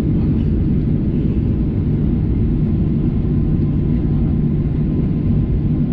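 Boeing 737-800 cabin noise heard from a window seat: the CFM56-7B engines and the airframe giving a steady low rumble at low, even power, with a faint steady whine through it.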